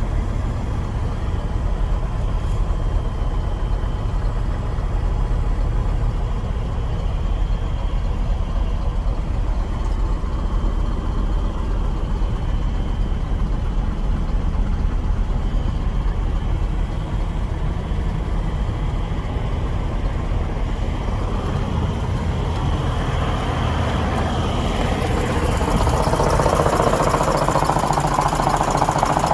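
1987 Chevrolet flatbed truck's engine idling steadily. About 25 seconds in, a louder, rougher sound joins the idle and keeps going.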